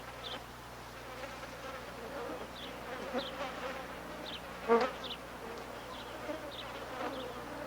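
Bush flies buzzing in a steady, wavering drone. A few faint high chirps sound through it, and one short, louder sound comes a little past halfway.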